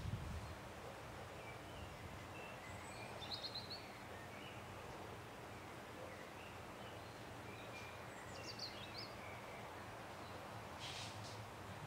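Small birds chirping now and then, short high calls scattered through a steady outdoor background hiss.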